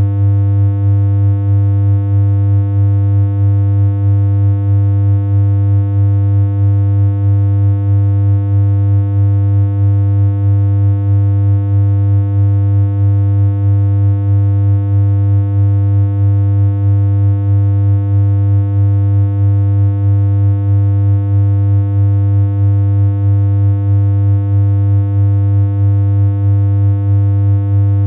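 Steady synthesized electronic hum: one low tone with a stack of overtones, held unchanging.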